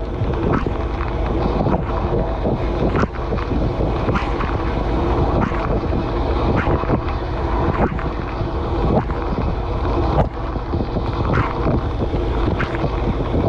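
Dishwasher running mid-cycle, heard from inside the tub: water from the spray arms splashing steadily against the dishes and the camera housing, with frequent sharp splats as jets strike.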